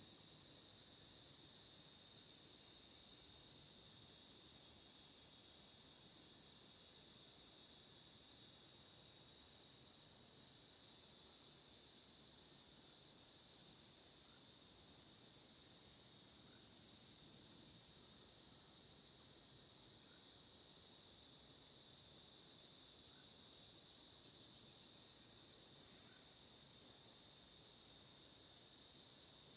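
Steady chorus of crickets, a continuous high-pitched trill with no break, and a few faint short chirps in the middle.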